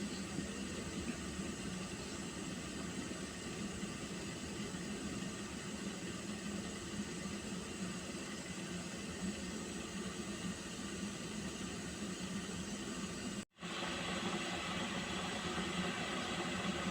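Water heating toward the boil in a pot, giving a steady hiss. It cuts out for a moment about 13 seconds in, then carries on slightly brighter.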